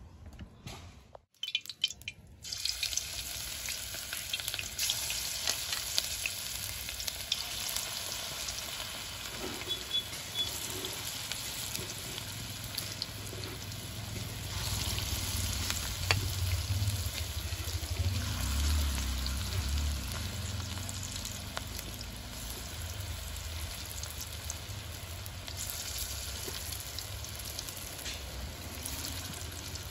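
Banana-flower fritters frying in hot oil in an iron kadai: steady sizzling with many small crackles, starting after a brief break about two seconds in.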